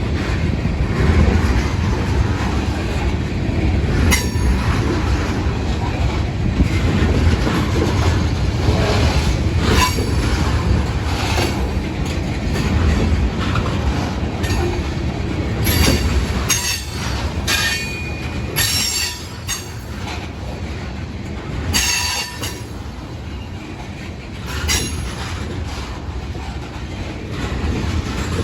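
Freight train of ethanol tank cars rolling past with a steady wheel rumble and scattered clanks over the rail joints, and a brief high wheel squeal about two-thirds of the way through.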